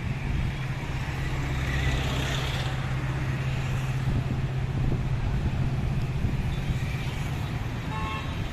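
A vehicle engine running steadily with a low hum, over outdoor background noise, and a short higher tone near the end.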